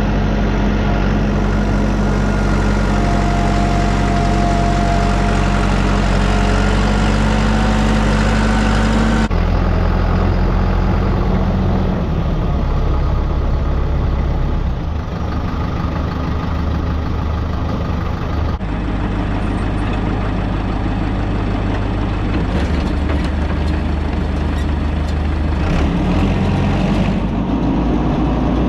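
Tractor engine running steadily and loud. Its tone shifts abruptly twice, and the engine speed rises near the end.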